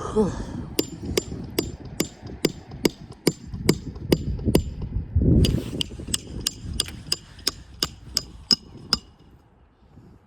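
Hammer driving nails on a shingle roof: a steady run of about twenty sharp, ringing blows, two to three a second, with a brief scrape about halfway through.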